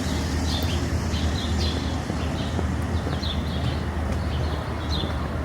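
Small songbirds chirping in short, repeated calls over a steady low rumble of city traffic.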